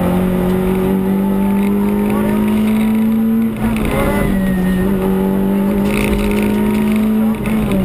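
Peugeot 106 Rallye rally car's four-cylinder engine, heard from inside the cabin, running hard at high revs with a steady, slowly rising note. It dips briefly twice, about three and a half seconds in and near the end, before pulling again.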